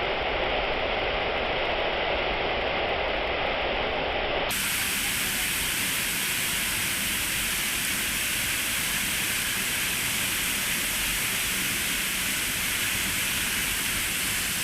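Steady rushing of the Manai Falls waterfall pouring into the gorge. About four and a half seconds in, the sound abruptly turns brighter and hissier and then stays even.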